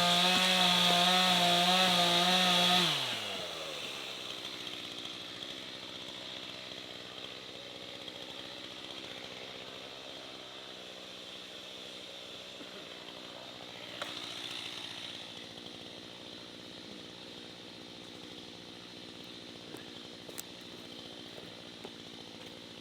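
Chainsaw engine running at high revs for about the first three seconds, then the throttle is let off and it drops to a steady idle for the rest, rising briefly once partway through.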